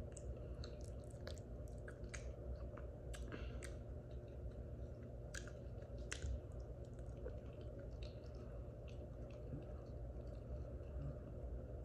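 A person chewing a mouthful of soft, saucy food close to the microphone, with scattered wet mouth clicks and smacks, over a low steady hum.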